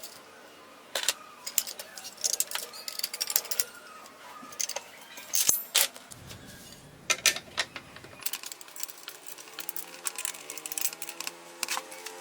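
Irregular metallic clicks and clinks of small metal parts being handled and set down, typical of reassembling an old circular saw.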